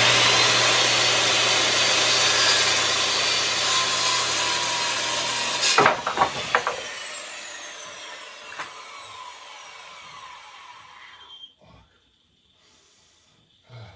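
Corded electric saw cutting through a 2x4 for about six seconds. Then a few sharp wooden knocks as the cut-off piece drops, and the blade winds down with a falling whine that fades out over several seconds.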